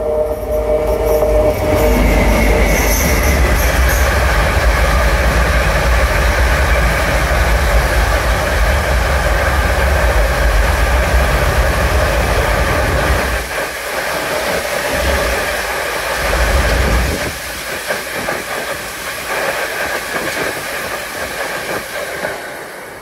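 A train passing close by: a loud, low rolling rumble of wheels on the rails. The rumble eases about 13 seconds in, swells briefly again around 16 seconds, then carries on lighter.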